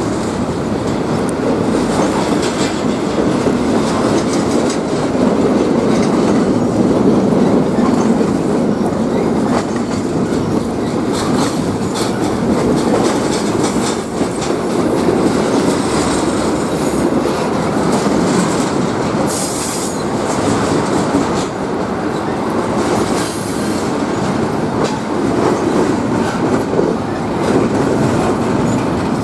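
Train rolling steadily along the track, a continuous rumble with wheels clicking over the rails. Brief high-pitched wheel squeals come twice, a little past two-thirds of the way through.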